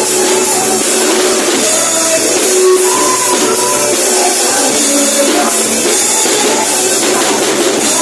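Praise band playing loud, continuous worship music, with a bright shimmer of percussion in the highs.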